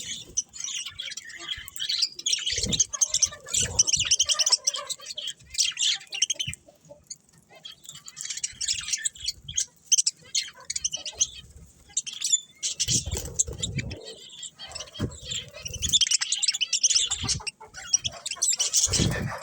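Budgerigars chirping and chattering in quick, busy runs, broken by short lulls, with a few dull low thumps about two-thirds of the way through and near the end.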